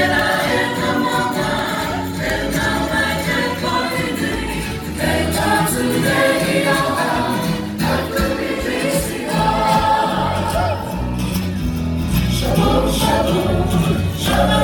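A group of voices singing together in harmony over instrumental music with a steady beat.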